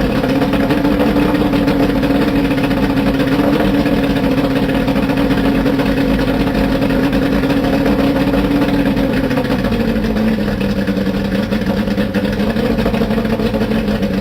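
Johnson two-stroke outboard motor running steadily, its pitch easing down a little about ten seconds in, then cutting off abruptly at the end.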